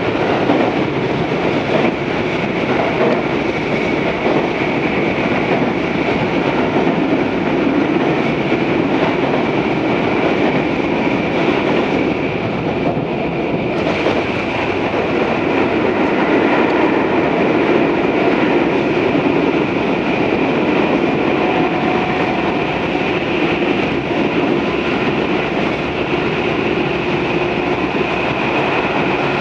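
Tobu 634 series electric railcar running between stations, heard from on board: a steady rolling noise of wheels on rail with motor and running gear noise. The higher part of the noise dips briefly about twelve seconds in.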